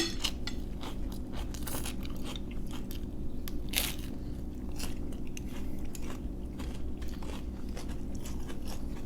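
Close-miked chewing of food, with scattered small crunches and mouth clicks, over a steady low hum.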